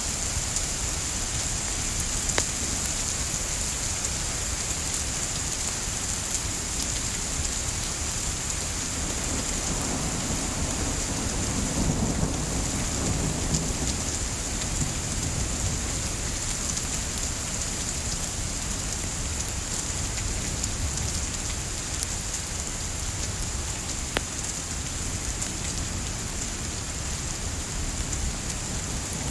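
Steady rain with a low rumble that swells and fades a little after the middle, and a few sharp pops from a crackling wood fire.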